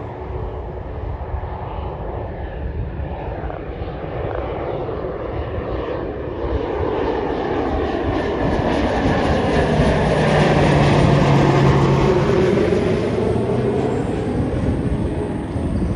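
Airplane engines passing close by, growing louder to a peak about two-thirds of the way through and then easing off, with a sweeping, shifting tone as it goes past.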